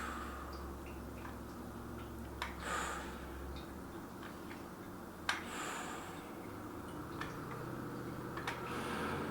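A person breathing out hard about every three seconds through a set of wrist curls, with scattered light clicks and a steady low hum underneath.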